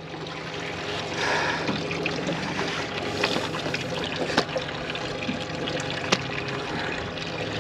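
Water trickling and sloshing, with a few sharp knocks about three, four and a half and six seconds in, over a faint steady low hum.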